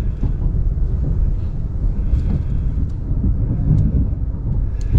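Ram 1500 Classic pickup's engine running steadily as the truck pushes snow with its plow blade: a low, continuous rumble.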